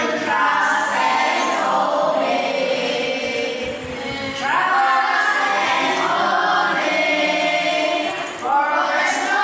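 A group of voices singing a hymn together in long held phrases, with brief breaks between phrases about four seconds in and again near the end.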